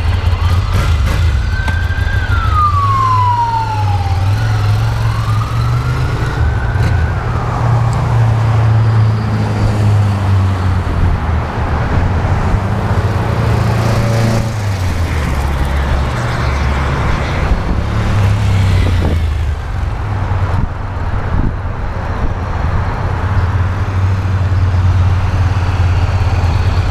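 2012 Ducati Monster 696's air-cooled L-twin engine running while the bike is ridden around, its low, deep note rising and falling with the throttle. In the first several seconds a siren wails up and down twice over it.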